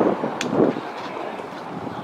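Wind buffeting the microphone, strongest in the first half-second and then easing, with one short sharp click about half a second in.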